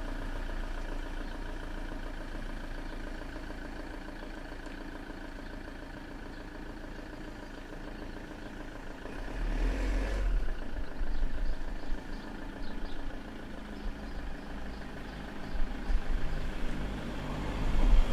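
A motor vehicle's engine running steadily, growing louder about nine seconds in and again near the end.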